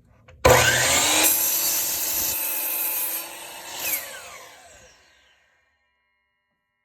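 DeWalt DWS779 12-inch sliding miter saw switched on, its motor rising in pitch as the blade comes up to speed, then cutting through a piece of oak for about two seconds. After the trigger is released the blade spins down with a falling pitch and stops about five seconds in.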